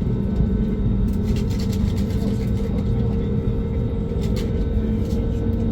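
Airbus A320neo heard from inside the cabin: a steady engine and airframe rumble with a constant low hum, plus a few faint cabin rattles, as the jet moves on the ground before takeoff.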